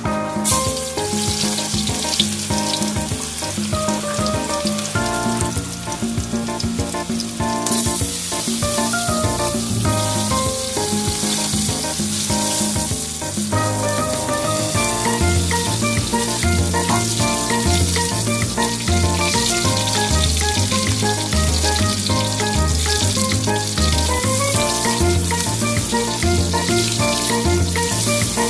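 Chopped garlic and onions sizzling in hot oil in an aluminium wok. The sizzle starts about half a second in as they hit the pan, grows louder about eight seconds in, then holds steady. Background music with a steady bass beat plays under it.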